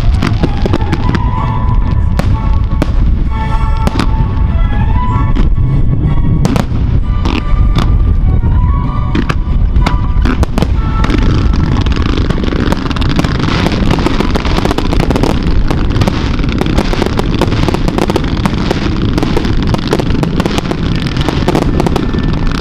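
A fireworks display going off to music: bangs from bursting shells over a melody for about the first half, then dense crackling and banging that buries the music.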